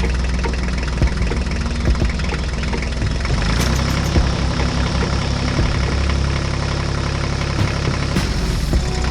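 An engine idling steadily, with a regular low pulse and light knocking.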